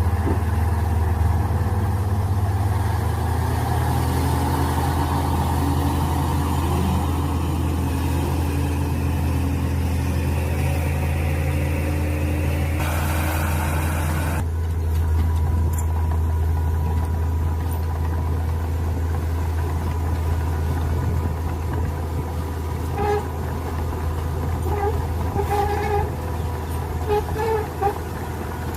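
Mini excavator engine running steadily at a low drone, with a higher whine that rises slowly over several seconds and cuts off abruptly about halfway through.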